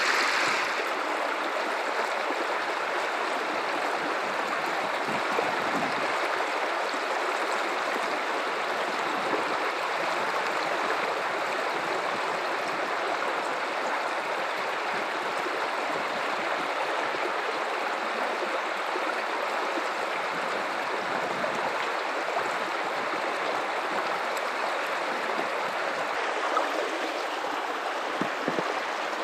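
River water running in a steady rush.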